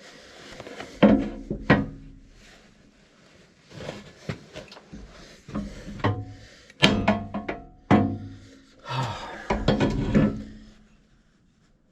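Metal tools and battery-cable hardware clanking and knocking during hands-on work, a scatter of sharp strikes, some of which ring briefly.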